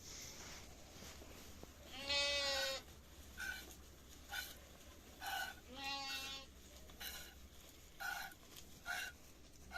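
Goats bleating: two long, quavering bleats, the first the loudest, followed by a run of short calls about once a second.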